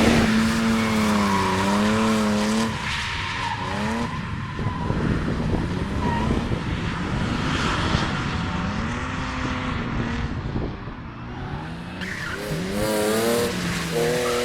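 Drift car engine held high in the revs, its pitch wavering up and down as the throttle is worked, over the hiss and squeal of tyres sliding sideways. The revs climb again near the end.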